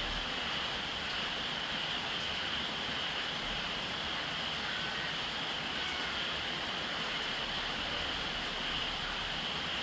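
Steady rain falling on a roof, an even hiss of drops with no change in strength.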